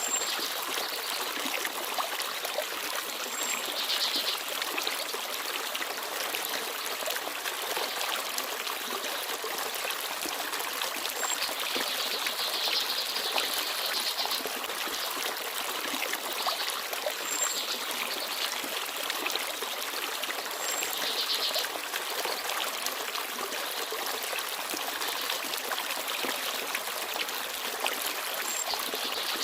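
Small forest stream babbling and trickling steadily, with brief high bird chirps every few seconds.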